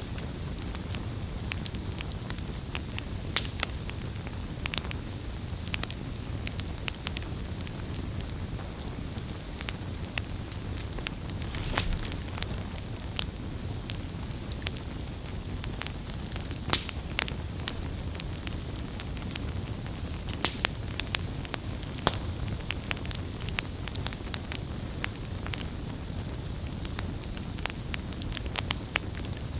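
Wood campfire crackling: frequent sharp, irregular pops and snaps over a steady low rumble of burning flames.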